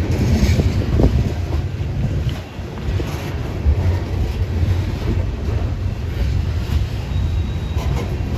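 Union Pacific coal train's aluminum coal cars rolling past: a steady low rumble of steel wheels on rail, with a couple of sharp clanks and a brief faint high squeal near the end.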